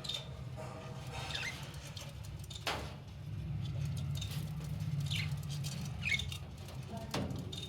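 Budgerigars chattering in their cage: short, scattered chirps and squeaks, with a single sharp click a little under three seconds in, over a steady low hum.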